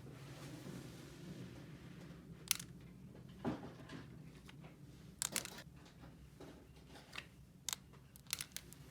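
Scattered light clicks and crinkles of small plastic toy pieces and packaging being handled, a few at a time, over a faint steady hum.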